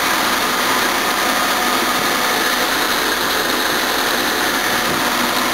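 Jaguar XJ6's freshly installed 4.2-litre straight-six idling steadily on its first run, with the hiss of a cooling fan blowing air over the engine bay.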